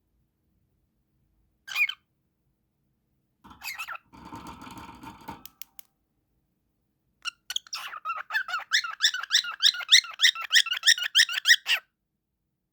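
Cockatiel calling: a single sharp chirp, then a short scratchy chatter, then a fast run of repeated high chirps, about four a second, that stops abruptly near the end.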